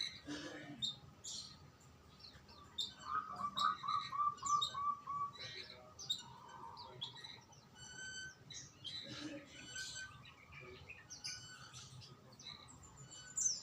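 Songbirds chirping and calling, with many short high chirps throughout and a quick run of about eight lower notes from around three to five seconds in.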